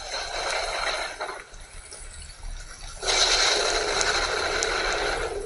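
Rainstorm sound from a rain screensaver: a steady hiss of heavy rain, which swells louder about three seconds in.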